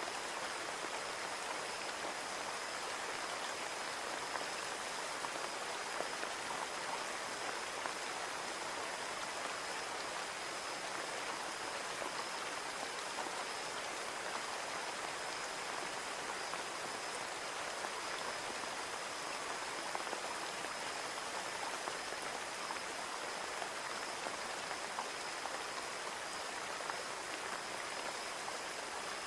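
Steady rain falling on a window, an even patter with scattered individual drop ticks. A faint steady high tone sits under it.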